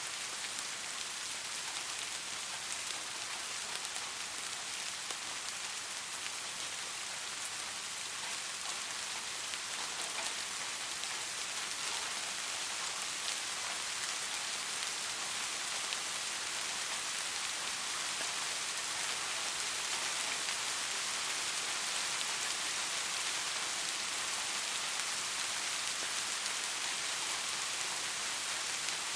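Steady rain falling on a surface: an even hiss with fine patter of drops.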